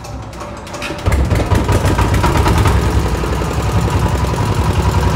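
Single-cylinder EM185 8.5 hp diesel engine being cranked over; it catches about a second in and settles into a steady, fast, even running beat. The seller calls the sound very good, a sign the used engine is in healthy condition.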